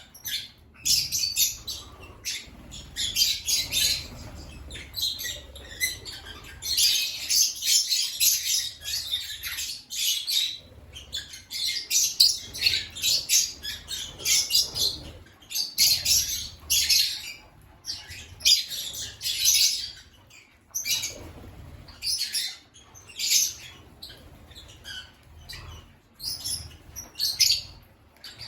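African lovebirds chattering: bursts of rapid, high-pitched chirps and squawks, each lasting a second or two, broken by short pauses.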